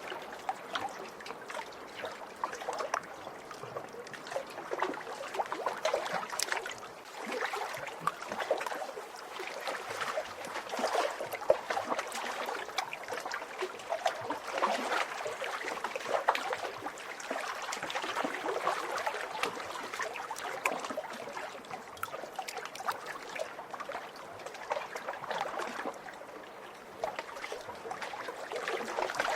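Lake waves splashing and lapping: a continuous run of small water splashes that swells and eases every few seconds.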